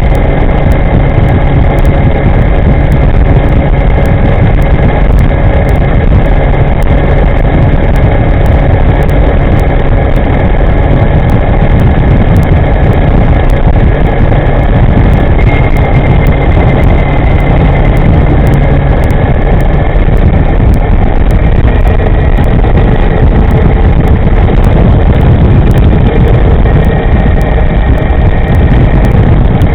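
Loud, steady wind rumble on the microphone of an electric scooter riding at speed. Over it runs a faint whine from the e-moving scooter's upgraded V200 electric drive, drifting slowly in pitch.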